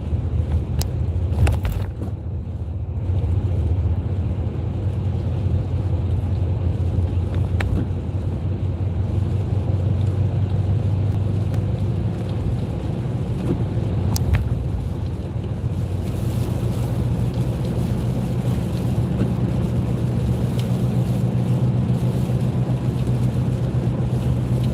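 Car cabin noise while driving on a wet road: a steady low engine and tyre rumble with a hiss of wet tyres, broken by a few faint clicks.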